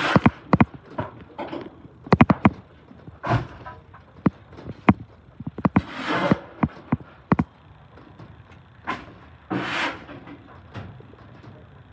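Metal tools clanking and scraping inside a garbage truck's hopper as garbage is cleared out from behind the packer blade: a run of sharp bangs, some in quick clusters, with a few longer scraping sweeps.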